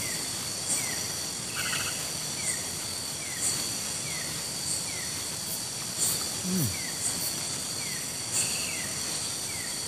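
Tropical forest night chorus of insects: several steady, high, unbroken buzzing tones. A short falling chirp repeats about once a second, and a single low falling call comes about six and a half seconds in.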